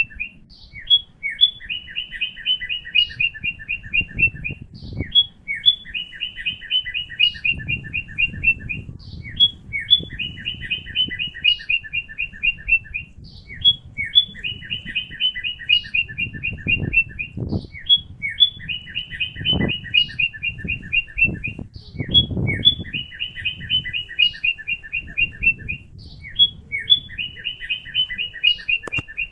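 A bird singing the same phrase over and over: a rapid string of short notes at two pitches, about two seconds long, repeating every three seconds or so with single calls in between. A low irregular rumble sits underneath.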